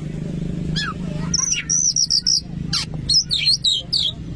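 Oriental magpie-robin (kacer) singing: a run of quick, high whistled and chattering notes with rapid up-and-down glides, over a steady low hum.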